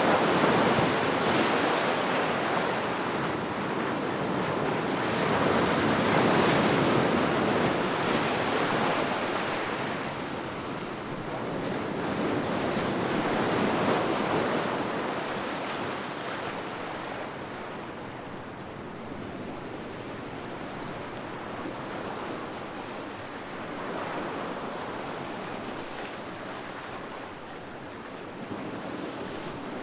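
Sea waves breaking and washing up the shore in slow swells, each surge rising and falling over several seconds, calmer in the last third.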